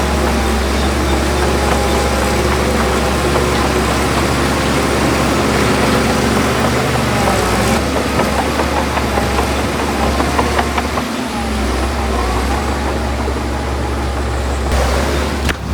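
Heavy earthmoving machinery running steadily: a loud, low diesel engine drone with a rough mechanical clatter over it.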